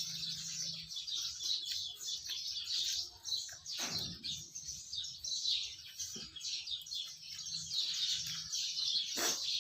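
Many small birds chirping continuously in a dense, high twittering, with two brief knocks, one about four seconds in and one near the end.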